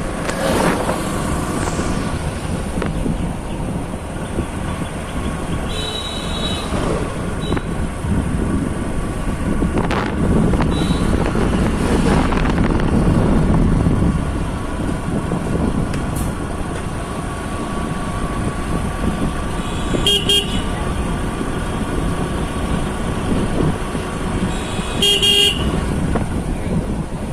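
Riding along a road: steady wind and engine noise, with vehicle horns tooting several times. There are short toots about 6 and 11 seconds in, and longer buzzing honks about 20 and 25 seconds in.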